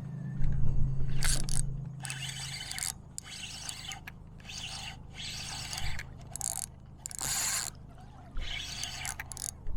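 A run of short, irregular scraping and rustling sounds, about eight of them, from fishing gear being handled on a kayak, over a low steady hum that stops about two and a half seconds in.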